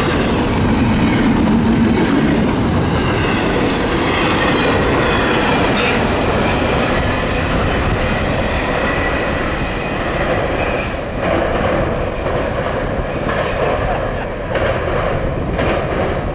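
CSX freight train's cars rolling past at close range: steady wheel-and-rail noise with a faint squeal in the first half. In the second half come repeated clacks and knocks as the wheels cross rail joints and crossings.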